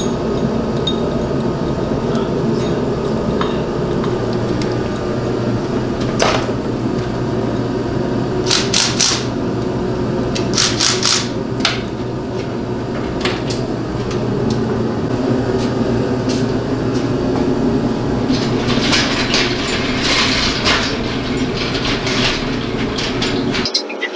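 A steady mechanical hum with scattered sharp knocks and short clattering bursts, like tool work in a garage. It cuts off abruptly near the end.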